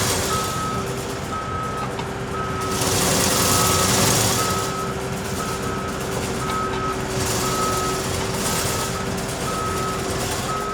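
Backup alarm of a Case TR320 compact track loader beeping steadily, a little under once a second, as the machine reverses under its diesel engine's steady running. The machine noise swells louder about three seconds in and again near the end.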